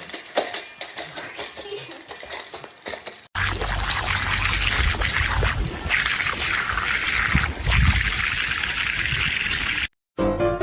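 Light scattered clicks and taps. About three seconds in, a steady rush of running or pouring water starts and lasts about six seconds, then cuts off suddenly. Piano music comes in near the end.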